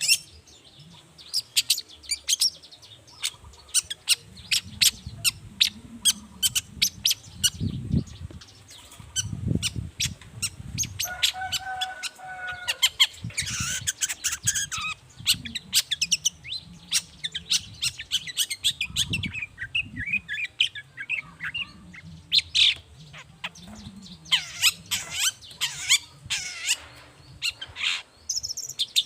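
Long-tailed shrike (cendet) singing: runs of rapid, sharp high notes, with a short lower, pitched phrase about eleven seconds in.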